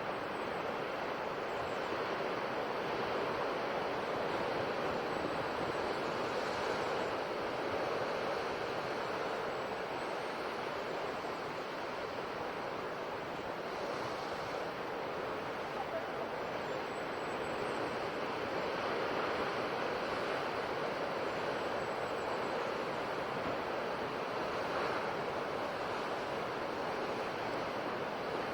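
Ocean waves breaking and washing on a shore, a steady surf with gentle rises and falls in loudness.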